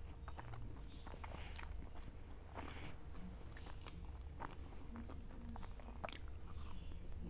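Close-miked eating: a person chewing a mouthful of maize-flour roti with mustard-greens saag, with scattered small mouth clicks and smacks, and fingers scooping food from a bowl.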